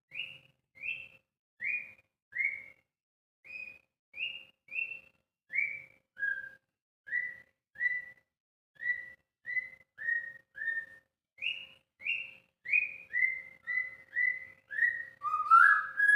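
White-rumped shama (murai batu) giving a long series of short whistled notes, a little over one a second, each a brief sliding whistle, with a louder, lower rising whistle near the end.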